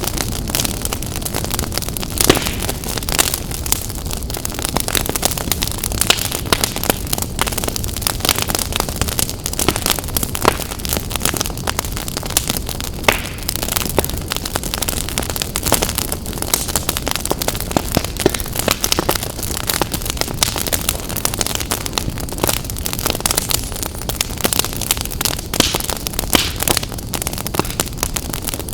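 Wood fire crackling in a fireplace: many sharp, irregular pops and snaps over a steady low rumble of the burning.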